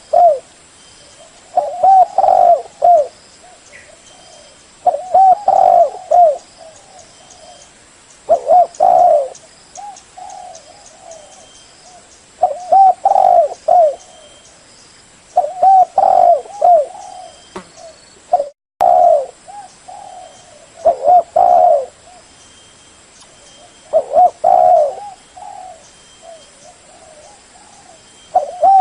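Spotted dove cooing: loud phrases of several mellow coos, repeated about every three to four seconds.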